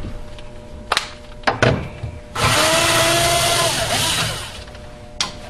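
Power drill-driver backing out a cover screw, its motor whining steadily for about two seconds, after a few clicks as the bit is set in the screw head.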